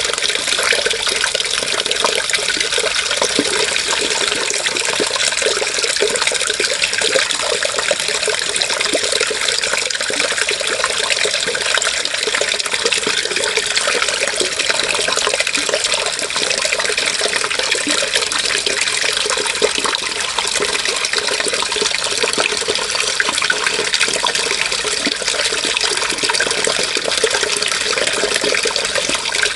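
Running water: a steady, unbroken rush and splash of flowing water that keeps the same level throughout.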